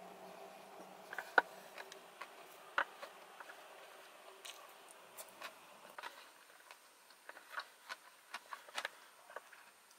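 Close-miked mouth sounds of a person chewing a large sushi roll with mouth closed: soft, irregular wet clicks and smacks, the loudest two about a second and a half and about three seconds in.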